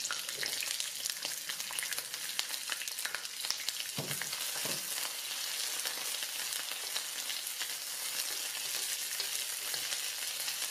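Green beans sizzling and crackling in hot oil in a non-stick electric wok, a steady hiss with the occasional scrape and knock of a wooden spoon stirring them.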